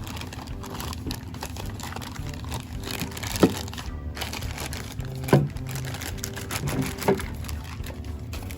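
Cardboard box and packaging being handled: crinkling and rustling with many small clicks as a wooden toy train garage is taken out. Three sharp knocks, about two seconds apart, stand out as the loudest sounds.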